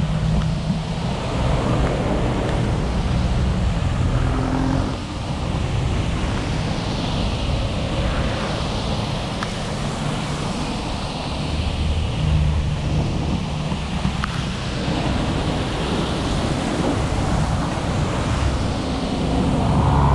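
Steady wash of rain, road spray and wind noise from a car driving through a heavy rainstorm, with low engine and tyre rumble underneath.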